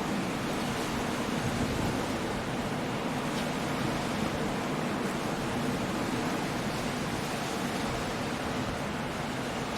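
Coastal storm: surf breaking against cliffs and rain in the wind, heard as a steady, even rush of noise with no distinct breaks.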